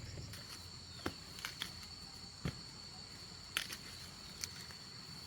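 Insects chirring steadily in a high, even tone, with a few scattered sharp clicks and knocks.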